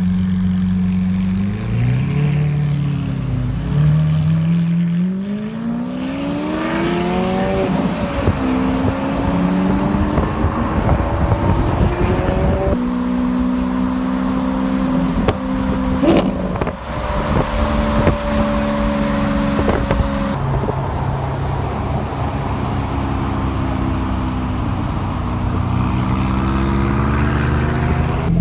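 Car engine pulling through the gears under acceleration: the pitch climbs, drops at each upshift, holds steady while cruising, then climbs again near the end.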